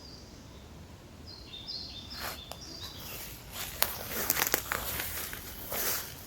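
Footsteps rustling through forest undergrowth, irregular, with several sharp snaps, starting about two seconds in. Just before and under the first steps a bird sings a short, stepped phrase.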